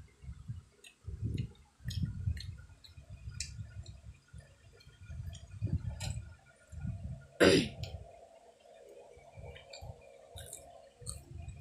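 Close-up chewing of food, with small clicks and clinks of a wooden skewer against plastic cups, and one louder knock about seven and a half seconds in.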